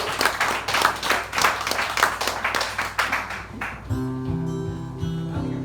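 Audience applause that fades out, then about four seconds in an acoustic guitar starts playing ringing chords with an even strum.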